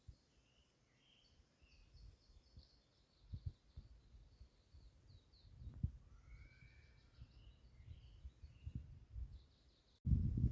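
Forest songbirds singing, with repeated high trills and short chirps, over low thumps and rumble on the phone's microphone. Near the end the low rumble suddenly becomes much louder.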